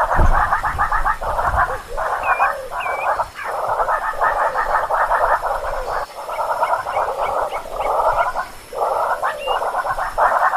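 Animal calls in rapid pulsing trills, coming in bursts of about a second with short breaks, and a few short high chirps above them.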